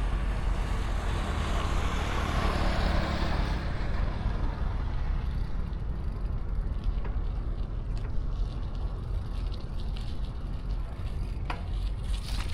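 City street traffic heard from a moving bicycle: a steady low rumble, with a vehicle passing that is loudest about two to three seconds in, and a few light clicks later on.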